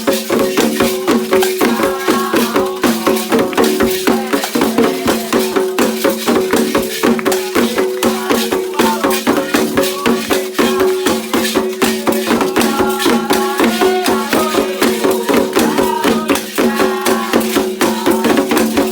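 Candomblé ceremonial music: a fast, steady rhythm of shaken rattles and drums, with voices singing a chant at times.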